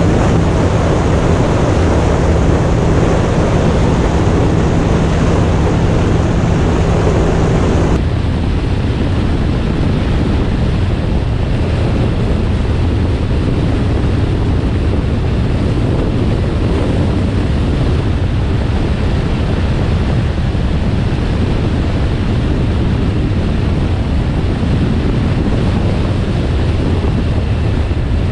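2025 Indian motorcycle running steadily at road speed, with heavy wind rushing over the microphone. About eight seconds in the sound changes abruptly and the higher part of the rush drops away.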